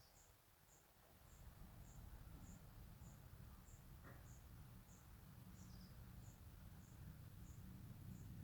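Faint high chirps repeating in an even rhythm about twice a second, with a few lower chirps in between, over a steady low rumble.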